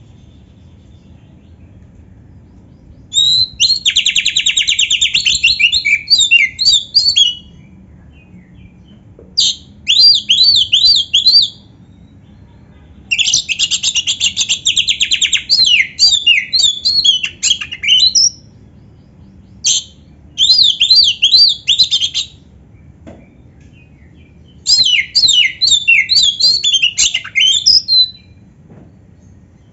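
Oriental magpie-robin (kacer) singing in full voice, with canary-like phrases in its song. It sings five loud bouts of a few seconds each, with short pauses between them. Several bouts open with a fast buzzy trill before breaking into quick rising and falling notes.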